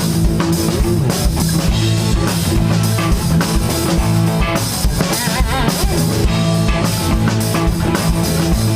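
Live rock band playing an instrumental passage with no vocals: drum kit beating steadily under electric guitars and a bass guitar.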